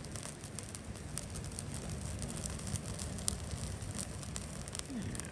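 Campfire crackling, with sharp pops scattered irregularly over a steady low rumble.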